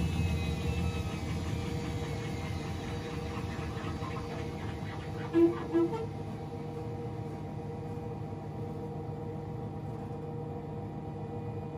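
Washing machine running down, its motor whine falling in pitch over the first few seconds under a steady hum. About halfway through come two short electronic beeps in quick succession.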